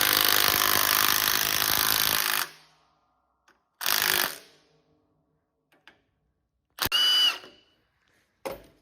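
Power tool run in three bursts: a long one lasting about the first two and a half seconds, then two short ones about four and seven seconds in. The last burst carries a brief high whine.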